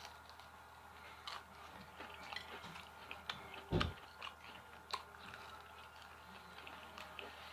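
Close-miked chewing of a breaded jalapeno popper: faint crunching with small irregular clicks of the mouth, and one soft, louder thump just under four seconds in.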